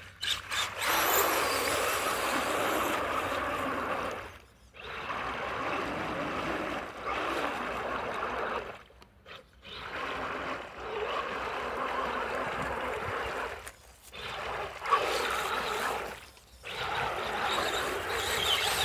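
Redcat Everest 10 RC mega truck churning and splashing through deep mud and water, with its tires spinning to dig the truck out. The noise comes in about five runs of a few seconds each, cutting out briefly between throttle pulls.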